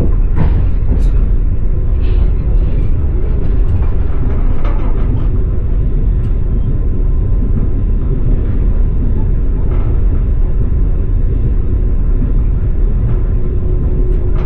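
Passenger railway carriage in motion heard from inside: a steady low rumble of the wheels on the track, with a few faint clicks in the first half. A faint steady hum joins about ten seconds in.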